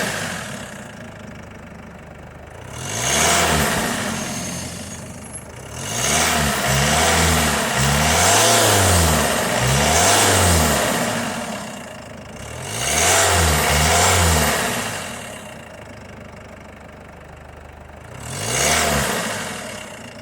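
2016 Mercedes C220 CDI's four-cylinder diesel engine being revved while parked. One rev comes about 3 seconds in, a run of four or five quick revs follows, then two more, and a last single rev near the end, each rising and falling back to a steady idle.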